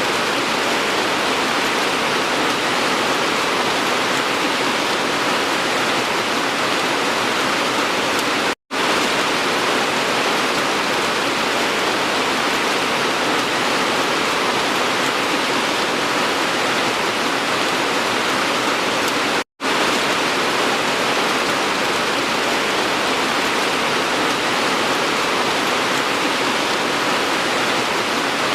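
Steady, even hiss of heavy rain, broken twice by a split-second drop to silence, about nine and nineteen seconds in.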